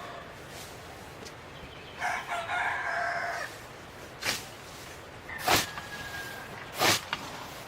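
A rooster crows once, about two seconds in. It is followed by three sharp knocks spaced over a second apart, which are louder than the crow.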